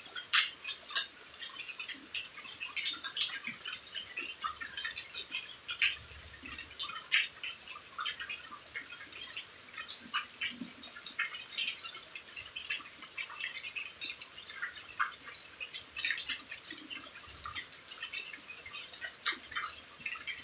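Rain beside a house: a dense, irregular patter of drops and drips, each a sharp little tick.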